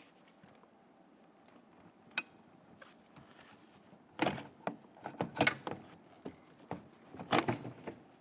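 Honda Ridgeline's plastic interior door panel knocking and rattling against the door as it is lifted off: a sharp click about two seconds in, then two clusters of knocks and rattles.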